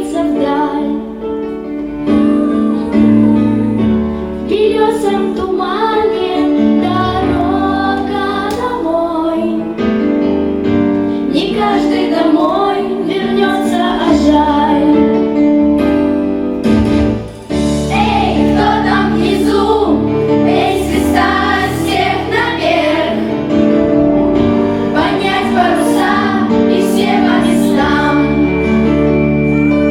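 A song: a female voice singing a melody over instrumental backing with a steady bass line.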